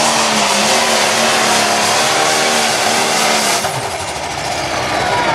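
Heavy super stock pulling tractor's turbocharged diesel engine at full power under load during a pull, then the throttle shut off abruptly about three and a half seconds in and the engine winding down, falling in pitch.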